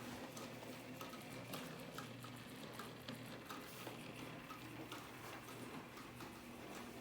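Belt-driven Athearn HO scale Hustler switcher locomotive running: a faint steady motor hum with regular light clicks.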